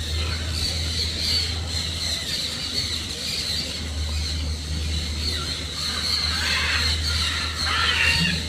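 A steady high-pitched whine runs throughout. Harsh, scratchy bird calls come in about six seconds in and stop just before the end.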